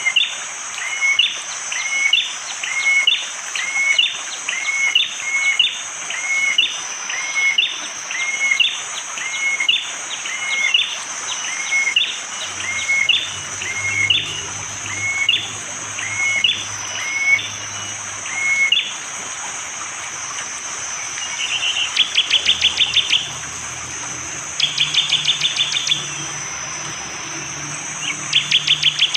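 Prenjak jali (a prinia) calling: a long run of sharp, up-hooked chip notes, about two a second, for most of the first twenty seconds, then three bursts of rapid trilling near the end. Under it runs a steady high insect drone.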